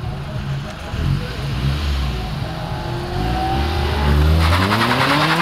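Mazda Miata's four-cylinder engine revving hard as the car accelerates, its pitch climbing, dropping back and climbing again. A rushing hiss joins near the end.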